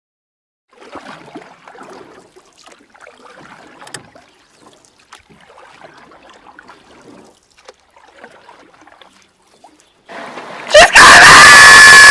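Faint, irregular water splashing with scattered light knocks, typical of a canoe being paddled. About eleven seconds in, a crowd breaks into loud yelling.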